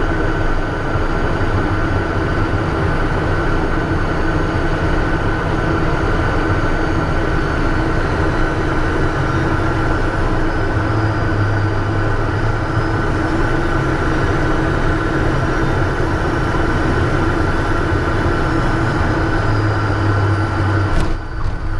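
Steady cockpit noise of a Cessna turbine aircraft's engines running: a loud, even rush with a few steady whining tones held throughout. The sound thins out abruptly just before the end.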